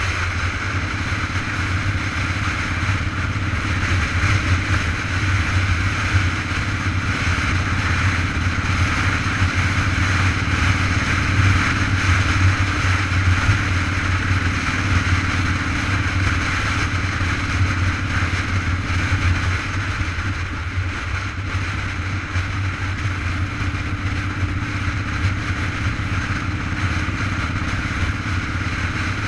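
Steady rushing noise of a bicycle in motion: wind buffeting the camera microphone, with a constant low rumble and tyre-on-road hiss.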